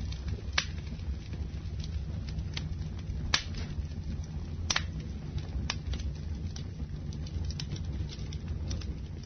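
Campfire burning: a steady low rumble of flames with scattered sharp crackles and pops from the burning wood, the two loudest near the middle.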